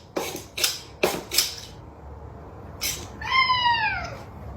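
A cat meowing: one long drawn-out meow about three seconds in that falls in pitch toward its end, after several short sharp noises in the first second and a half.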